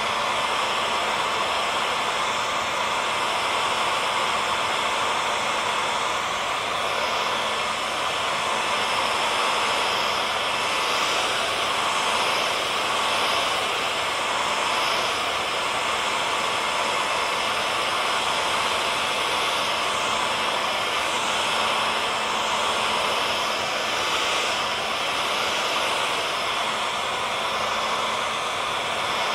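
Hair dryer blowing steadily: an even rushing noise with a faint motor hum under it, kept at one setting.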